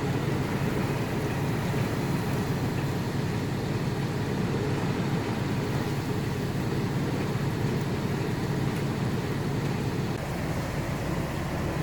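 Inside a truck cab in a heavy downpour: a steady wash of rain on the truck and windshield over a constant low engine and road hum.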